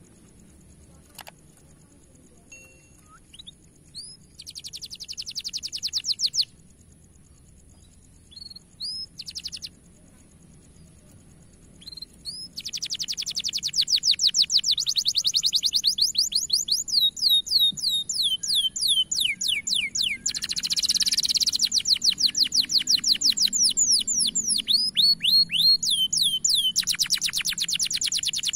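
Domestic canary singing: a few short trilled phrases at first, then from about twelve seconds in a long, loud run of fast rolling trills and rapid up-sweeping notes.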